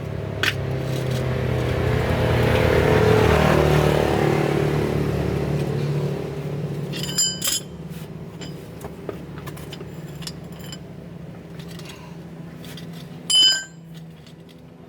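A motor vehicle engine running, growing louder over the first few seconds and then settling back to a lower steady hum. Two short metallic clinks ring out, about seven seconds in and near the end.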